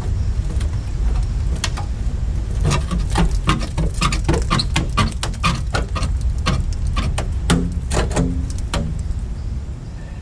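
Rusted sheet-metal cab corner being worked and knocked loose to break its last spot weld: a run of irregular sharp metallic knocks and clicks, several a second, over a steady low rumble that fades near the end.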